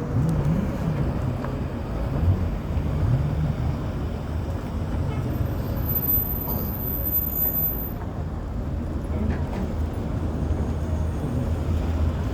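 Steady low rumble of vehicle engine and traffic noise.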